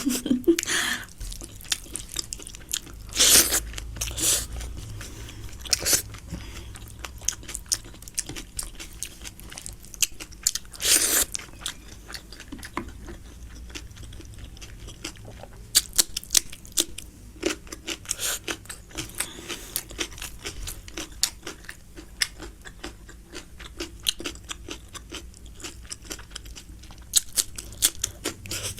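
Close-miked chewing and biting of biryani: a run of wet mouth clicks and crunches, the loudest about three and eleven seconds in.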